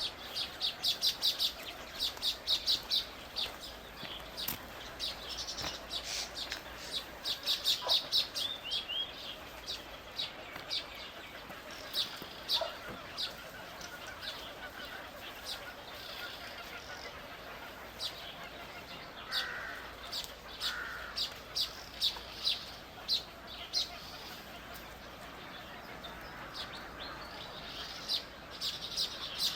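Small birds chirping: short, high chirps, some in quick runs of several a second and others single and scattered.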